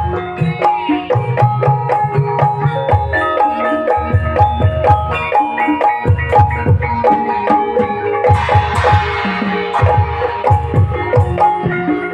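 Ebeg accompaniment music: a gamelan ensemble of struck pitched keyed percussion playing an interlocking pattern over bursts of kendang hand-drum strokes. A brief noisy rattling wash comes in about two-thirds of the way through.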